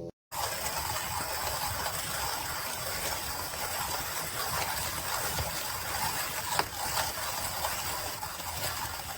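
Manual coffee grinder with ceramic burrs being hand-cranked, coffee beans crunching between the burrs in a steady gritty noise with small clicks throughout.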